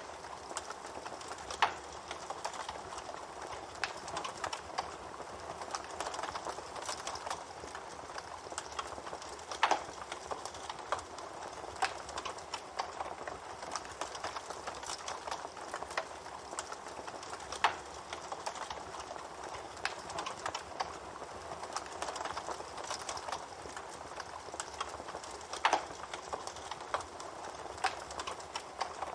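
Wood campfire burning with steady fine crackling and four louder sharp pops spread evenly through it.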